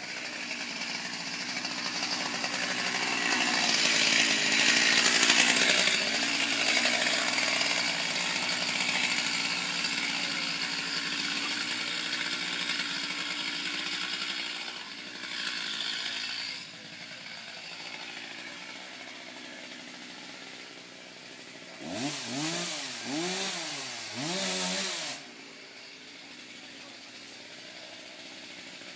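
Chainsaw cutting into a windblown tree, loudest a few seconds in and easing off partway through. Later it gives three short revs, each rising and falling in pitch, then runs quietly.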